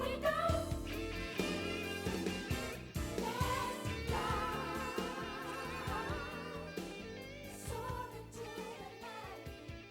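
Anime ending-theme pop song with singing, growing quieter toward the end.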